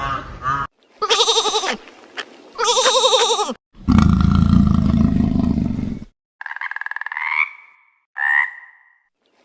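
A string of short, separate animal calls. First come two quavering calls, then a long, low rumbling call, and near the end two shorter, higher calls that rise in pitch.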